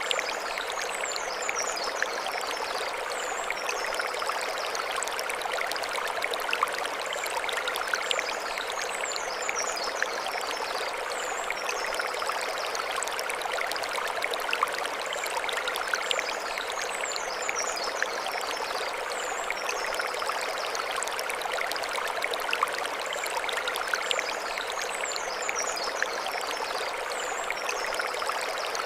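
Mountain stream running over stones: a steady rush and trickle of water. Faint high chirps recur above it in pairs about every eight seconds.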